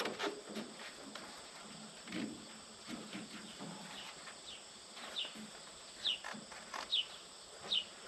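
A bird calling: short, high, falling chirps repeated about once a second through the second half. In the first second or so there are faint knocks and rubbing from hand work on the sawmill's blade housing.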